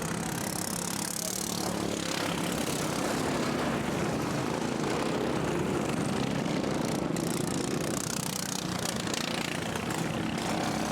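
Racing lawnmower engines running steadily on the track.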